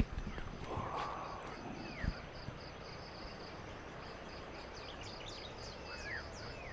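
Rural morning ambience: insects calling in a steady high pulse about three times a second, with a couple of short, falling bird calls and a brief rush of noise about a second in.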